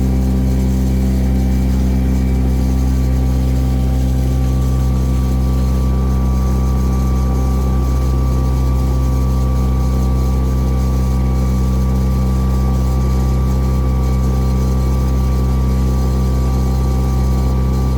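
Cruise boat's engine running at a steady pace, a loud even drone with no change in speed. A thin steady whine joins about four seconds in.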